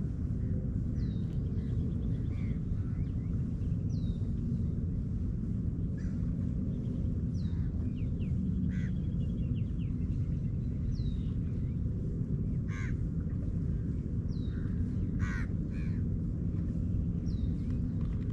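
Crows cawing a few times, harsh and spaced apart, over a steady low rumble. A small bird repeats a short, high, falling note about every second and a half.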